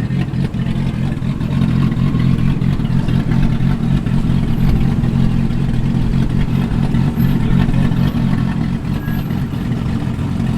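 Car engine rumbling at low revs as a car rolls slowly past: a steady, deep, loud rumble with no big revving.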